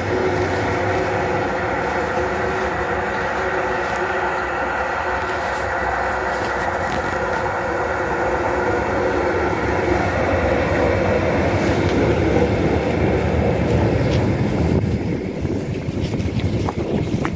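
Tyne and Wear Metro train running, a steady hum with several held tones over rumbling noise, getting a little louder partway through. Near the end the hum falls away and a run of regular clicks begins.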